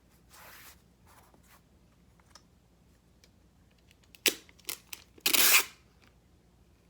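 Craft pieces being joined by hand: a sharp click about four seconds in, two lighter clicks, then a short loud tearing sound lasting about half a second.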